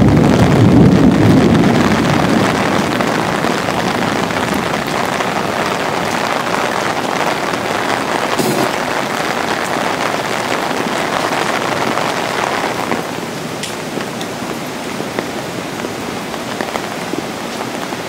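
Heavy rain falling steadily during a thunderstorm, with the low rumble of a close thunderclap dying away over the first couple of seconds. There is one sharp crack about halfway through.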